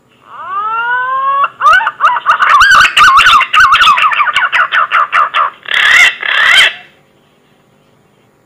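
Green pigeon (punai) whistling call: a few rising whistles, then a rapid run of warbled, wavering notes, ending about six seconds in with two louder, harsher notes.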